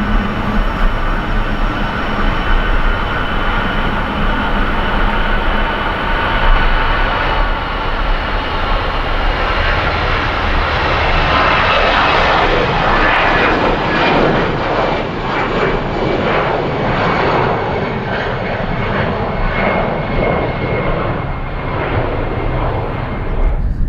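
Jet airliner engines passing close: a steady high whine of fan tones over a low roar, turning rougher and rippling in the second half.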